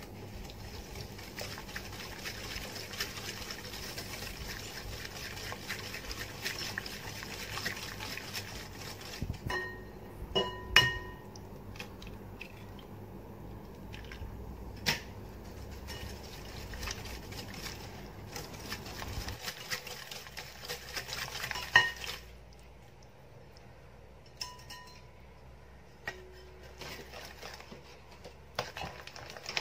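Hand whisk beating cake batter of sugar, oil and eggs in a mixing bowl: a steady swishing, with a few sharp ringing clinks of the whisk against the bowl about a third of the way in and again about two-thirds in, after which the stirring goes quieter with scattered light taps.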